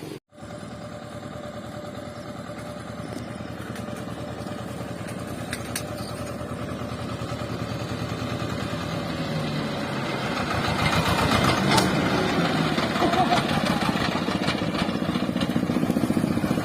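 Swaraj 724 FE tractor's diesel engine running, with a fine steady pulsing, growing louder over the first ten seconds or so and then holding steady.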